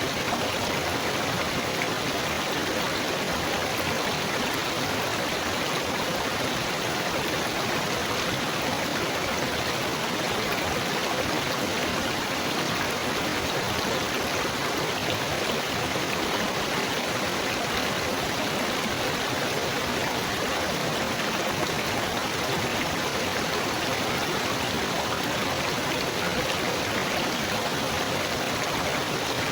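Trickling, babbling water running on steadily without change, like a small stream.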